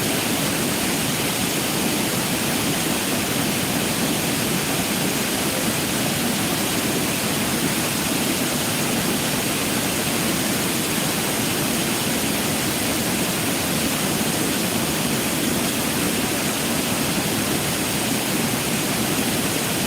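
Jägala waterfall's water pouring over the falls: a steady, unbroken rush that never changes.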